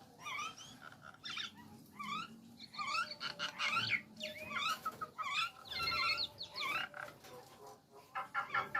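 Nias hill myna calling: a run of short rising whistled calls and chatter, several a second with brief gaps.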